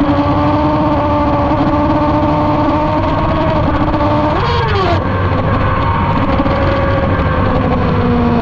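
Motorcycle engine running hard at high revs and holding a fairly steady pitch that sags slowly. About four and a half seconds in, the pitch rises and falls quickly once.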